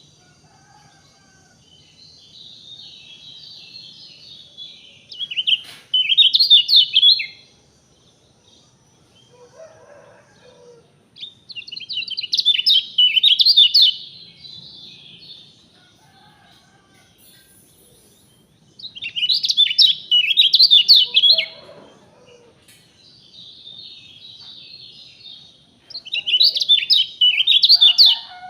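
A songbird singing loud phrases of rapid chirps about every six or seven seconds, with softer twittering between the phrases. Two brief lower calls come in, around a third of the way through and again past the middle.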